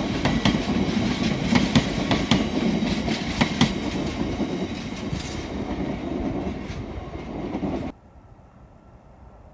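Freight train of tank wagons passing, its wheels clicking over the rail joints with a steady rumble. The clicks stop a few seconds in and the rumble fades as the train draws away, then cuts off suddenly near the end to a quiet background.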